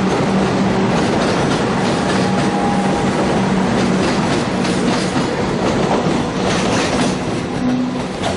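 Metro Trains Melbourne electric suburban train passing close by, a loud steady rumble of wheels on rails. In the second half the wheels click repeatedly over the track as the last carriages go by.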